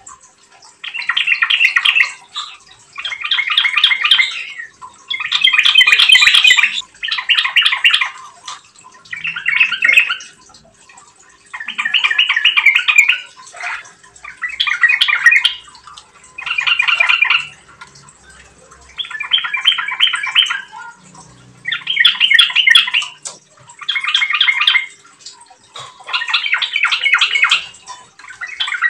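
Yellow-vented bulbul (trucukan) singing loudly in a long run of bubbly, rapid chattering phrases, each about a second long, repeated with short pauses of under a second.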